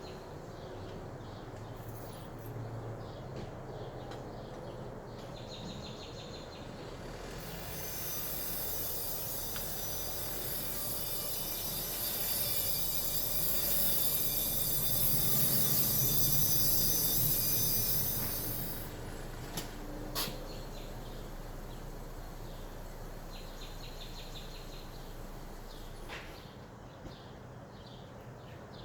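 Rear brakes of a 2014 Honda Civic squealing as the car is put in reverse: a loud, high-pitched whining squeak of several tones. It starts about a quarter of the way in, grows louder, and cuts off about two-thirds through. Two sharp clicks follow, with faint chirping around it.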